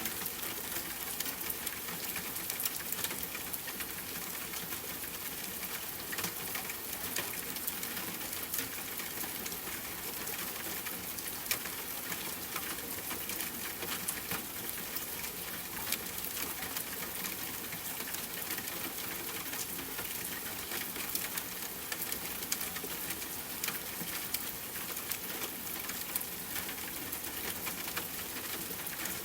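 Steady rain with a campfire crackling: an even hiss dotted with frequent small sharp ticks and pops.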